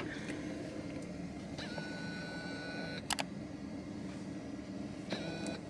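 Steady low hum of a vehicle running, heard from inside, with a high steady whine from about a second and a half in to about three seconds and again briefly near the end, and a click in between.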